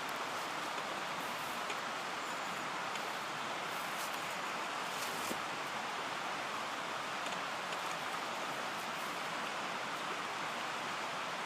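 Steady rushing of a flowing mountain stream, even and unbroken, with a few faint ticks over it.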